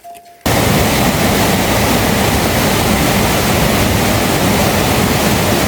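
Loud, steady rush of water, as of a heavy downpour or a torrent, starting suddenly about half a second in.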